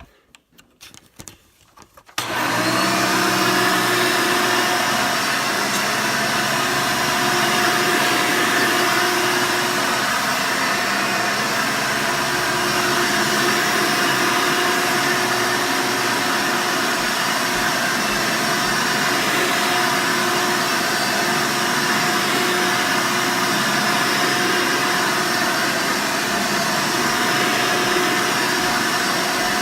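Hoover Sprint upright vacuum cleaner switched on about two seconds in, its motor coming up to speed at once and then running steadily, a loud rush of air with a steady whine over it.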